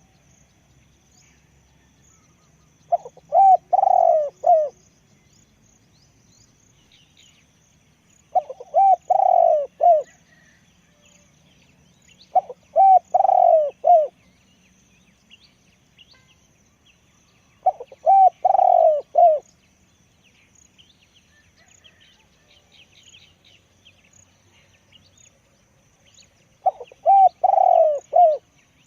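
A spotted dove cooing: five phrases of a few deep, rounded coos each, repeated every few seconds, with a longer gap before the last. Faint chirps of small birds sound in the pauses.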